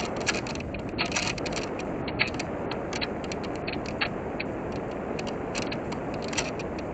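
Steady rush of airflow over a small model plane's airframe, heard from a camera mounted on board as the plane glides with no motor tone, with many irregular light clicks and ticks, thickest in the first couple of seconds.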